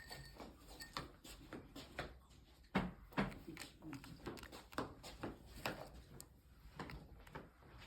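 Irregular light knocks and clicks of kitchen utensils and dishes being handled, the loudest two close together about three seconds in.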